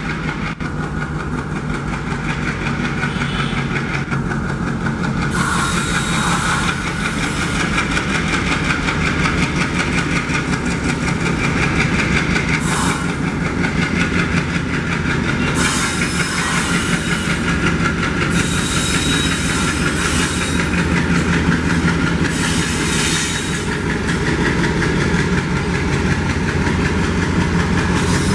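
ALCO WDG3A diesel locomotive's V16 engine chugging hard under load while hauling a long freight train, with the wagons' wheels rolling and clacking over the rail joints.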